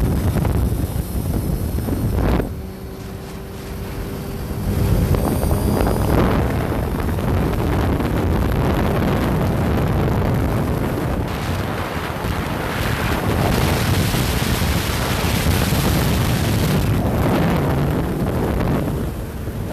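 Wind buffeting the microphone on a moving motorcycle, with engine and road noise underneath; the wind eases for a couple of seconds about two seconds in.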